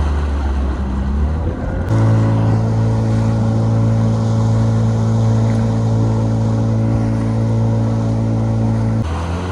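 Boat motor running at a steady speed with a low, even hum. About two seconds in the sound switches abruptly to a steadier, higher-pitched hum, which changes back near the end.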